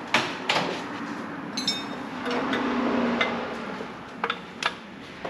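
Wrench on an O2 sensor threaded into a steel exhaust pipe being tightened: several sharp metallic clinks and knocks, one with a brief ringing, and a drawn-out lower sound about halfway through.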